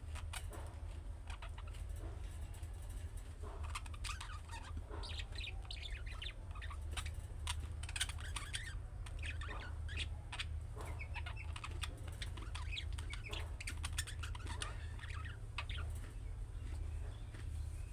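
Budgerigars chattering: a dense, continuous run of short chirps and clicks over a steady low hum.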